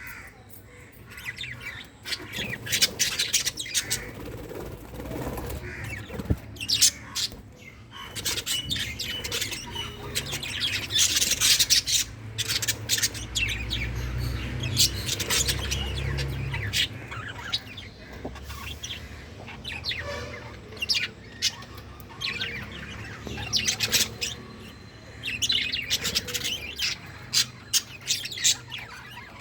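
Pet budgerigars chirping and chattering in quick bursts of short, high calls, with a few squawks.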